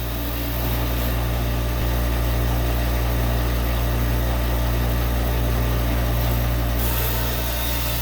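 Bandsaw motor running with a steady hum while the blade spins free, not cutting. About seven seconds in, a hissing cutting sound comes back as the blade enters the log again.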